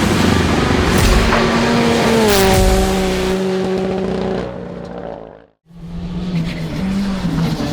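Rally car engine running hard at speed, its note dropping a little over two seconds in and then holding before it fades out. After a brief dropout about five and a half seconds in, another rally car's engine comes in.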